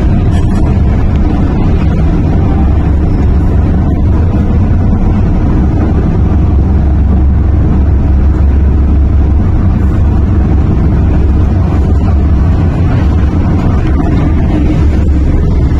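Inside a moving MTR Island Line M-Train (electric multiple unit) at speed: a loud, steady low rumble of the running train.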